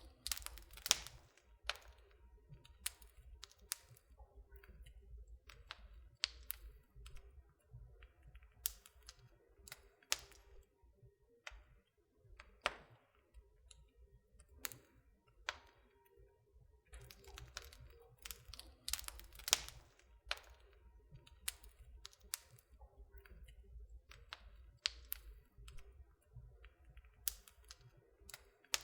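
Wood fire burning in a fireplace, crackling with irregular sharp snaps and pops over a low steady rumble.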